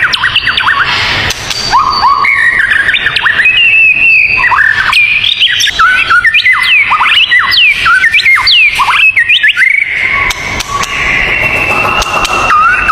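Dense birdsong: many quick rising and falling chirps and whistles over a steadily held high note.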